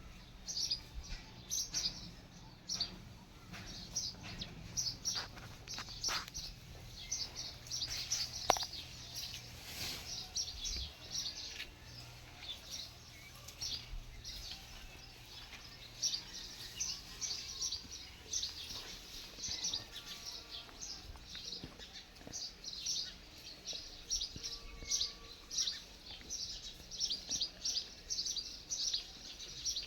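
Small birds chirping, many short high chirps in quick succession over a faint low background rumble.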